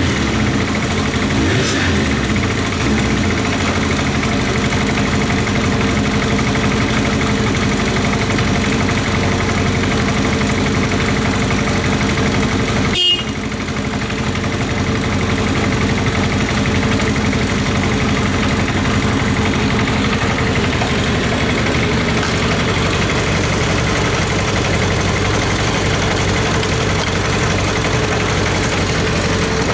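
1997 Kawasaki Zephyr 750RS's air-cooled inline-four idling steadily, its engine running. Just after the start the revs rise and fall a little, and the sound drops out very briefly about halfway through.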